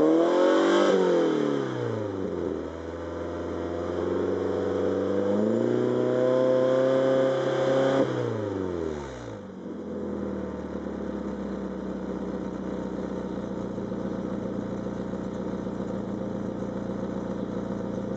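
Fiat Grande Punto 1.4's four-cylinder petrol engine heard through a full sport exhaust. It gives a quick rev that falls back, then a slower climb held high for a couple of seconds, then drops sharply about eight seconds in and settles to a steady idle.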